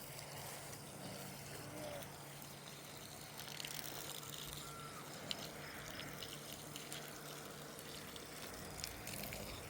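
Water running steadily in a faint, even trickle, with a few faint ticks.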